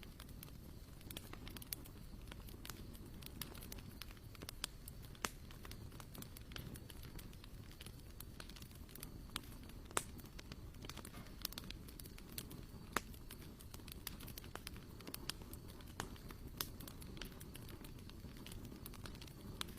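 Wood campfire crackling: scattered, irregular sharp pops, a few louder than the rest, over a low steady rumble.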